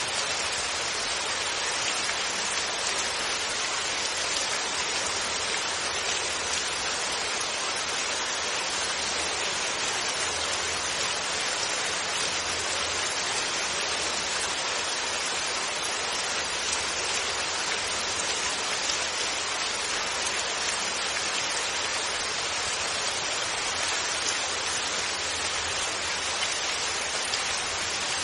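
Steady rainfall with no thunder: an even hiss of rain that stays constant, with no single drops or knocks standing out.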